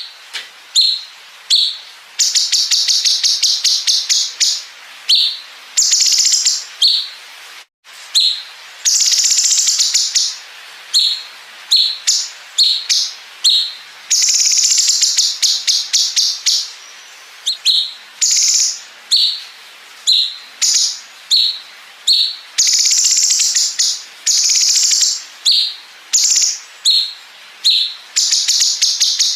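Cucak cungkok (bulbul) singing loudly in high, sharp phrases, with long machine-gun-like 'bren' runs of very rapid repeated notes in between.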